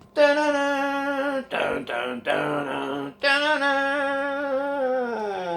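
A man singing long wordless held notes unaccompanied: three sustained notes, the last one sliding down in pitch near the end.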